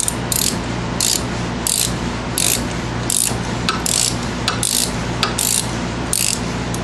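3/8-inch ratchet on a 7mm Allen socket clicking in short bursts, about every two-thirds of a second, as it is swung back and forth to back out a brake caliper bolt.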